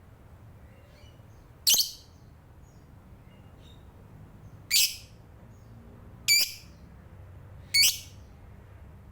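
Lovebird giving four short, high-pitched calls, spaced a second or more apart.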